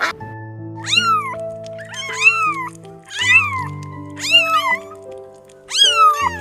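Domestic cat meowing repeatedly, short calls that rise and fall in pitch, over background music of sustained notes.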